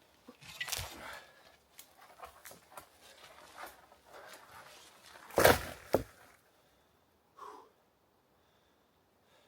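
Dead wood and brush rustling and crackling as small dead trees are handled and dragged, with a loud crash about five and a half seconds in; then it goes still.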